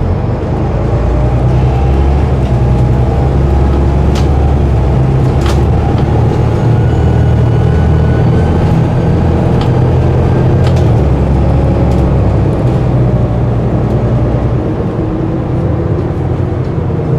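City bus diesel engine running loudly and steadily close by, with a few sharp clicks and rattles.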